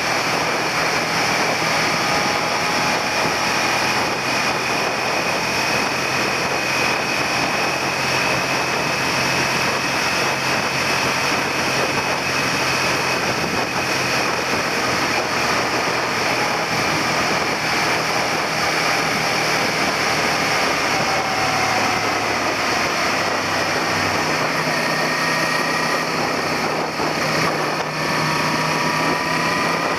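Suzuki SV400 V-twin engine running steadily under way, with wind rushing over the handlebar-mounted microphone.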